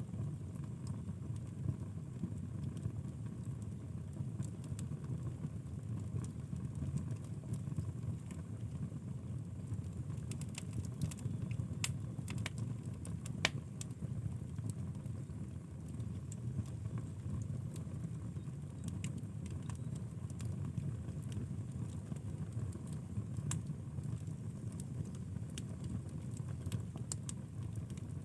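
Wood fire burning in a fireplace: a steady low rumble with scattered crackles and pops, one sharper pop about halfway through.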